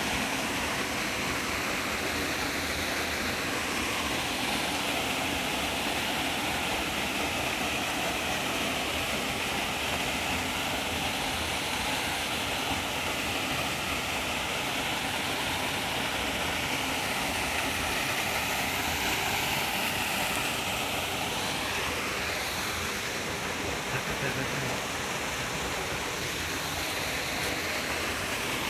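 Waterfall: a steady, continuous rush of falling and splashing water.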